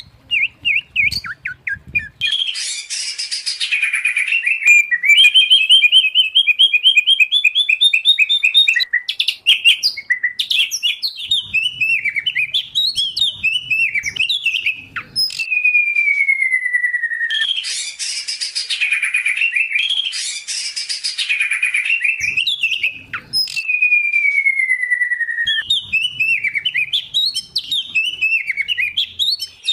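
Loud, varied songbird song from a mixed recording of white-rumped shama, oriental magpie-robin and greater green leafbird: fast whistled trills, harsh scratchy bursts and long falling whistles, with the same phrases coming round again about fifteen seconds later.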